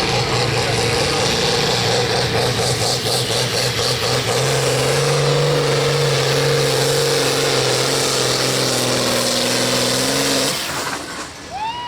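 Hot stock pulling tractor's diesel engine running hard and loud at high revs, its pitch rising slightly about halfway through. The engine sound drops away suddenly near the end.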